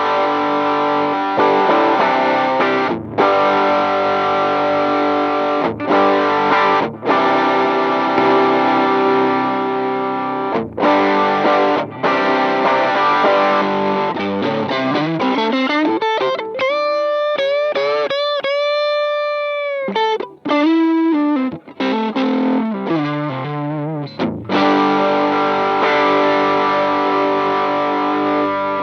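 Electric guitar played through a Demonfx King Spark drive pedal, a clone of the Piggyfx Flashdrive, giving a distorted tone. Chord riffs with brief stops give way to a lead line with a long held note bent in pitch about two-thirds of the way in, then chords again until the playing stops suddenly.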